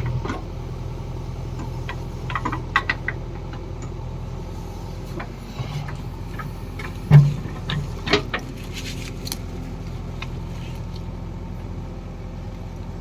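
Farm machine's diesel engine running steadily, with scattered metallic clanks and knocks. The loudest knock comes about seven seconds in.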